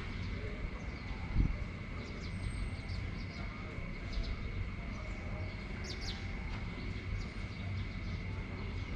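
Steady rain and wind noise with a low rumble and a steady high hum, with a few short bird chirps about two to four seconds in and again about six seconds in.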